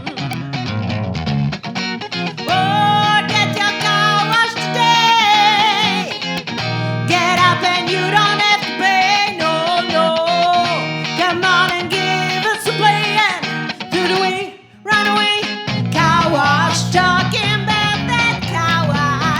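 Funk band music: a guitar playing bending lead lines over a steady bass line, with a brief stop about fifteen seconds in before the groove picks up again.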